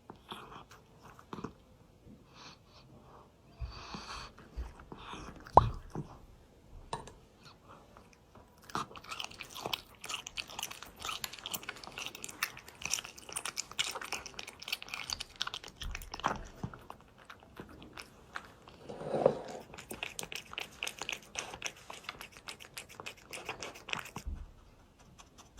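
Cat crunching dry food in a dense run of small crisp bites. The crunching comes in sparse clicks and a few louder knocks at first, then runs steadily through most of the stretch.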